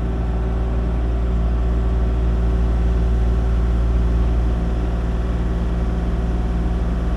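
Kubota KX-040 mini excavator's diesel engine running steadily under load while pulling a portable sawmill, its level rising a little over the first few seconds.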